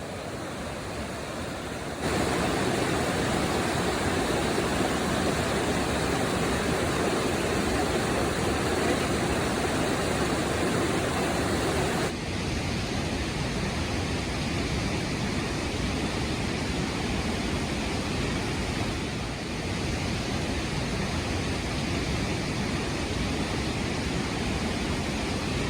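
Steady rushing of a mountain stream or waterfall. It jumps abruptly louder about two seconds in and drops slightly about twelve seconds in.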